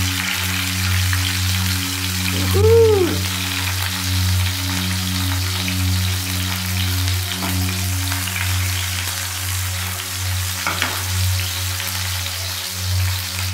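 Cherry tomato pieces and garlic cloves sizzling in hot olive oil in a frying pan, a steady sizzle that starts as the tomatoes go in. A steady low hum runs underneath, and a short pitched sound that rises and falls comes about two and a half seconds in.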